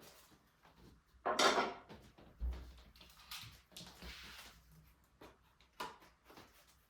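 Handling noises while a mountain bike is unpacked: a loud scraping rustle about a second and a half in, a low thump just after it, more rustling, and a sharp click near the end.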